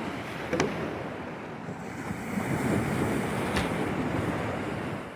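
Steady rushing of surf and wind on the microphone, swelling and easing, with two sharp pops, one about half a second in and one about three and a half seconds in.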